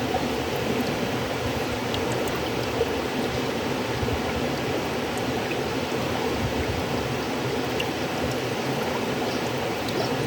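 River water flowing steadily: a continuous, even rushing noise with a few faint scattered ticks.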